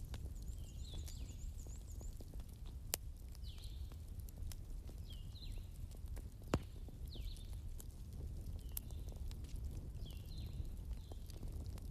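Wood fire crackling with two sharper pops, about three and six and a half seconds in, over a steady low rumble of storm wind. Short high chirps repeat every second or two through it.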